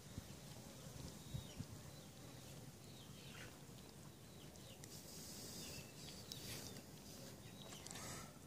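Quiet outdoor ambience with a steady low rumble and a few faint, short, falling bird chirps now and then.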